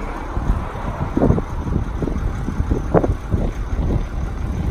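Diesel engine of a 2003 International 7400 bucket truck running steadily as a low rumble while it drives the hydraulics that rotate the boom. A few brief louder sounds come and go over it.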